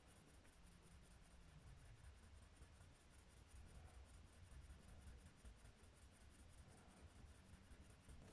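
Near silence with faint scratching of colouring on paper.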